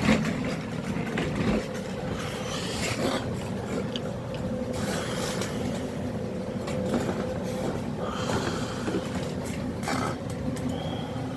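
Hand tools clinking and scraping against metal parts in short, irregular bursts, over a steady low mechanical hum.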